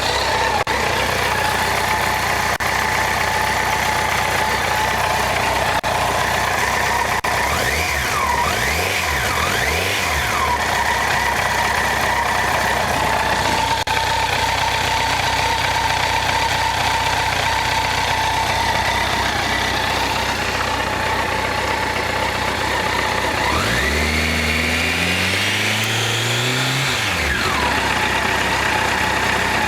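Honda CBR1100XX Blackbird's inline-four engine idling steadily, blipped briefly a few times about eight seconds in, then revved once more, rising and falling back to idle, about 24 seconds in.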